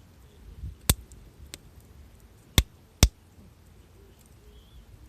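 Wood fire crackling: a sharp pop about a second in, then two more about half a second apart a little later, over a low background.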